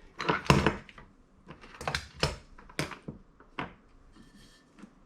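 Small metal carburettor parts and hand tools clicking and knocking as a carburettor is reassembled on a bench, in irregular sharp taps, the loudest about half a second in.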